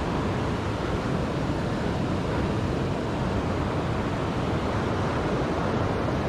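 Steady rushing of a waterfall pouring into a river in flood, an even wash of water noise with no breaks.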